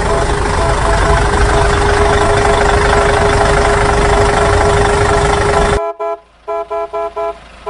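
Cartoon vehicle sound effects: a loud, steady engine rumble with a held tone that cuts off suddenly near the end, then a quick run of short horn toots.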